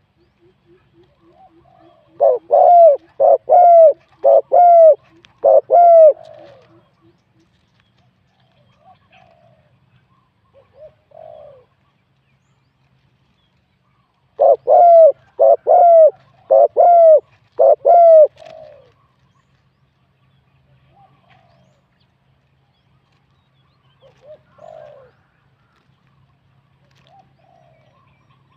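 Spotted dove cooing: two loud phrases of about five notes each, roughly twelve seconds apart, with fainter, more distant coos in between.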